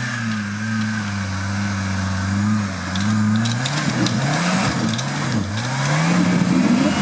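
Off-road competition vehicle's engine running at a steady speed, then revved up and down repeatedly from about three and a half seconds in, as it works at the course. Scattered short clicks and knocks sound during the revving.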